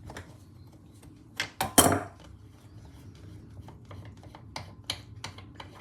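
Metal clinks and knocks of an adjustable spanner on the spark plug of a British Seagull outboard as the plug is undone, with a loud cluster of knocks about a second and a half in and scattered lighter clicks after.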